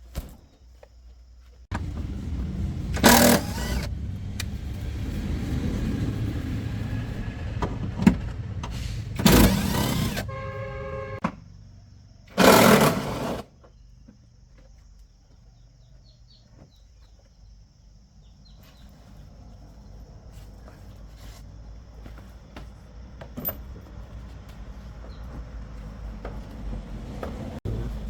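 Box truck's diesel engine starting and running with a low rumble. There are three loud bursts of noise and a short pitched tone in the middle, and then it runs more quietly, slowly getting louder near the end.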